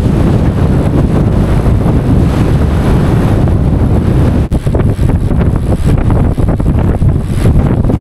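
Heavy wind rushing over the microphone of a bicycle rider coasting fast down a long downhill, a loud steady rumble with a couple of brief dips about halfway through.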